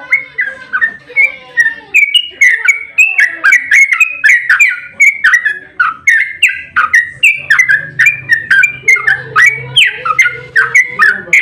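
Yellow-vented bulbul (trucukan) singing a long, unbroken run of rapid chattering notes, about four a second: the fast 'ropel' song used to lure other bulbuls into answering.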